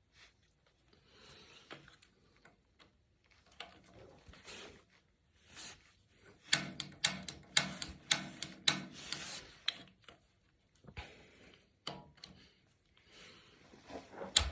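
Handling noises while working on a gas water heater: faint rubbing and scraping, then a flurry of sharp clicks and rattles for a few seconds around the middle.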